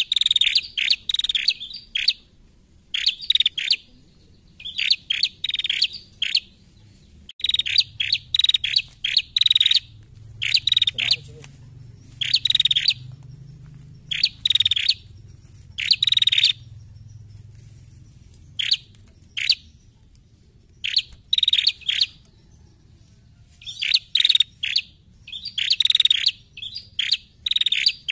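Female prenjak calling: sharp, high chirps delivered in quick rattling bursts of up to a second or two, repeated again and again with short pauses between.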